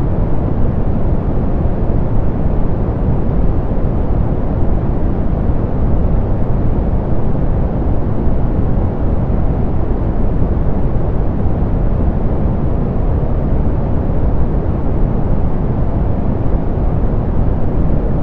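Soft pink noise, a generated steady hiss, deep and muffled, with the treble rolled off.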